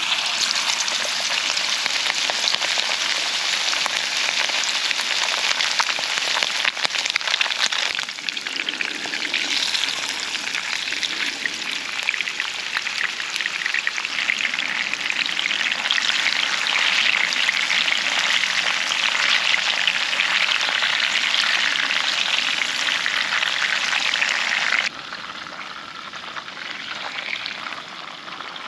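Food frying in a hot pan: a loud, steady crackling sizzle that drops suddenly to a quieter sizzle near the end.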